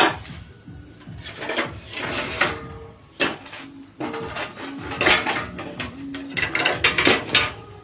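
Metal tools and parts clinking and knocking against each other in irregular strikes, several with a brief metallic ring.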